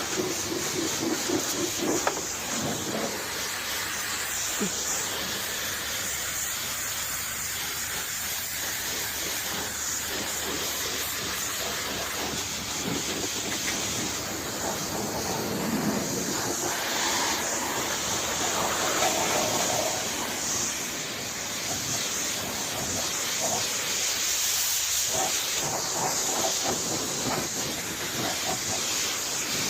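Pressure washer lance spraying water onto a tractor's bodywork, a steady hiss with small changes in level.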